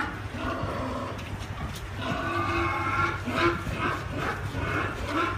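Pigs calling, with several drawn-out squeals in the middle, over a steady low rumble.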